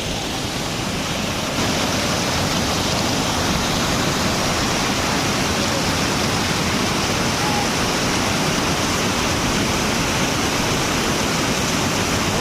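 Steady rushing of a large waterfall, Dudhsagar Falls, with no pauses. It gets a little louder and brighter about a second and a half in.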